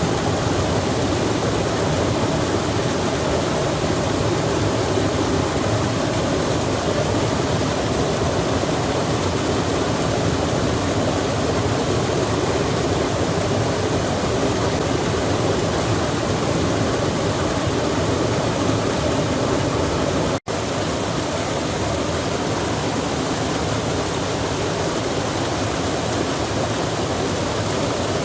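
Steady rushing of a mountain stream or waterfall, an even wash of water noise that cuts out for an instant about two-thirds of the way through.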